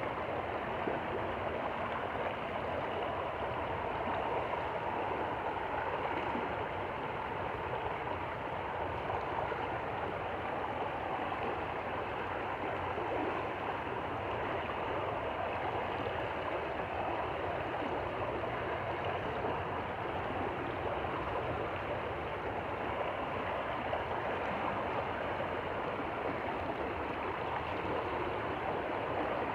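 Small stream flowing and gurgling steadily over stones, a constant rushing babble.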